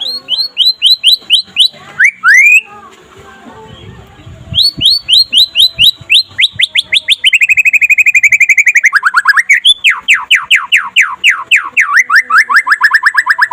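White-rumped shama singing in fast runs of repeated down-slurred notes. A short run and two rising sweeps come first, then a pause of about two seconds. After that comes a long, loud, unbroken run of rapid repeated notes that steps to a new pitch several times.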